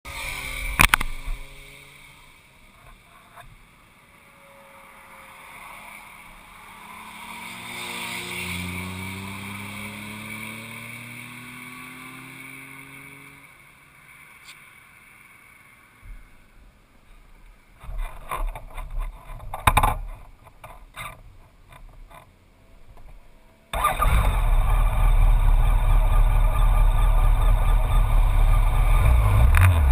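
Scattered clicks and knocks, then about 24 seconds in a Honda VFR1200F's V4 engine comes in suddenly and runs steadily at idle. Before that, a fainter engine rises in pitch and fades away.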